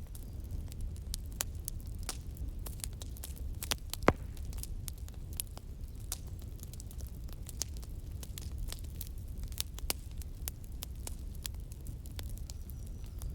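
Wood fire crackling: irregular sharp pops and snaps over a steady low rumble, with one louder pop about four seconds in.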